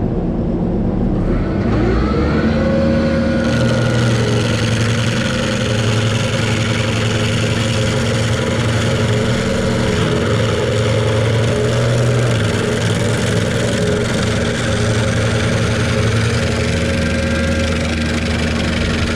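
A large engine revs up over the first two or three seconds, then runs steadily at high speed.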